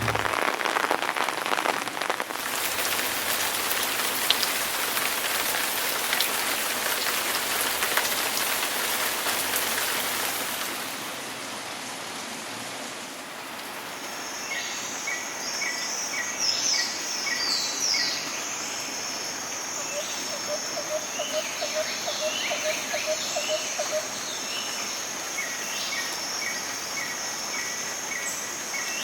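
Steady rain falling, easing off after about ten seconds. Birds then start calling, with short chirps repeated in quick series and higher sweeping notes. A fast pulsing trill comes in twice near the end.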